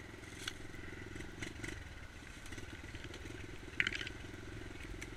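Dirt bike engine running at low revs, with a few short sharp knocks and rattles, the loudest about four seconds in.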